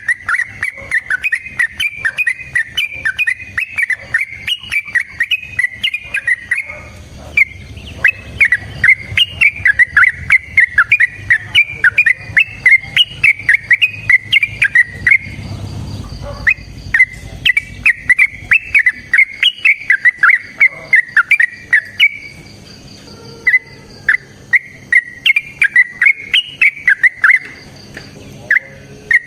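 Yellow-vented bulbul (trucukan) song: long runs of rapid, bubbling whistled notes, broken by a few short pauses.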